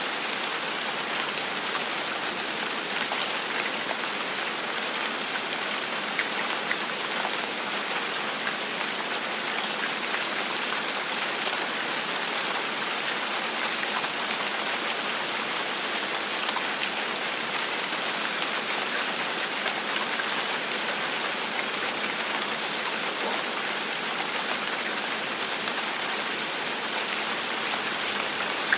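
Steady gentle rain falling on a surface: an even hiss with scattered single drops ticking through it, no thunder.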